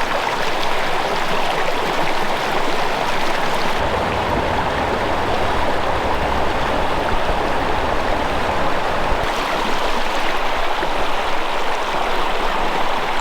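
Fast-flowing brook running over rocks: a steady, unbroken rush of water.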